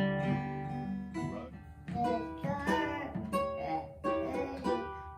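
Acoustic guitar played unevenly, a string of separate strums and plucked notes about every half second to a second.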